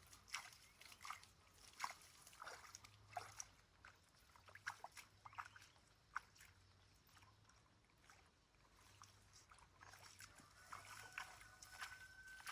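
Faint, irregular crackling and snapping, with a thin steady tone near the end.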